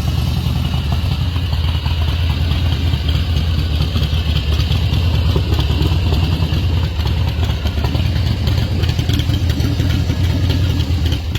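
Motorcycle engine running steadily, a deep, rapid exhaust note.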